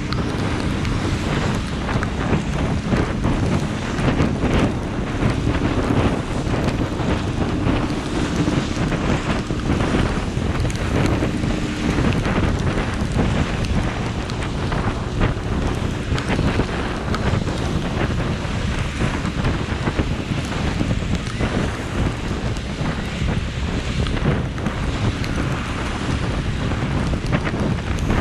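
Heavy rain falling steadily: a dense, even hiss full of fine drop taps. A faint steady low hum sits under it for the first dozen seconds or so.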